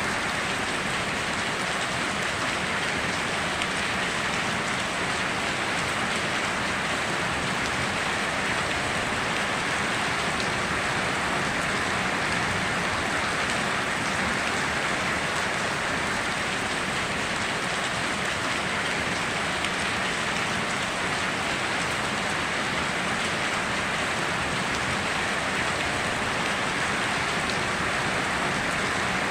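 Steady heavy rain falling on surfaces, an even hiss of drops that holds level throughout.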